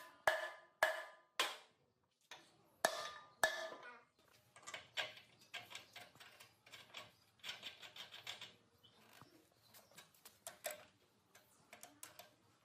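Metal parts being knocked in a workshop: about five sharp, ringing strikes in the first few seconds, then a long run of quicker, lighter taps and clicks.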